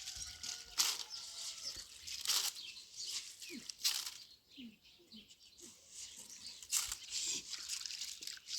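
Repeated rustling and crackling in short bursts, with a few faint chirp-like tones near the start.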